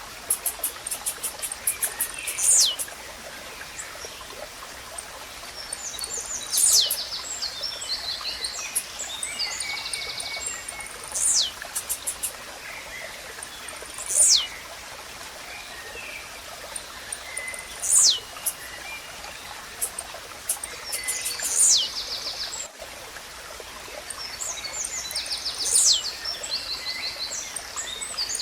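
Blue-black grassquit (tiziu) singing: a short, sharp high note that slurs steeply downward, repeated about every four seconds, seven times. Other small birds chirp in between, over a steady trickle of running water.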